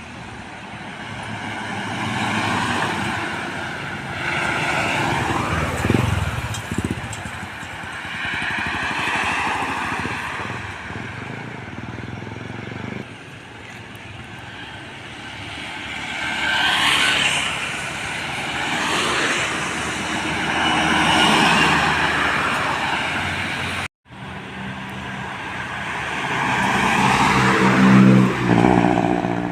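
Heavy trucks and buses passing by one after another on a road, the tyre and engine noise swelling and fading with each pass. After a brief drop-out, a last passing vehicle carries a steady pitched drone that grows loudest near the end.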